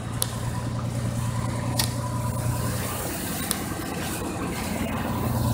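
1985 Ford F-150's 300 cubic-inch inline-six idling steadily with an even pulse. Three short clicks are heard over it.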